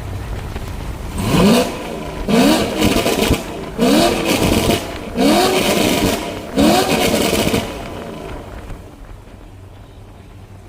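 A car engine revved hard five times in a row, the pitch climbing and falling back with each blip of the throttle, before it settles back down.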